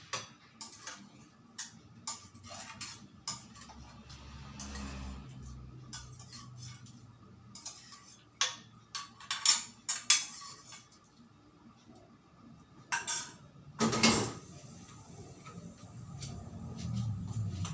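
Dishes and cutlery clinking: irregular small clicks and knocks, with louder clatters about halfway through and again a few seconds later.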